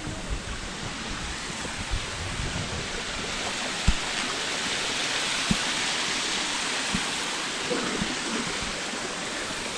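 Rushing water of small mountain streams and cascades: a steady hiss that grows louder around the middle. A few soft low knocks come through it.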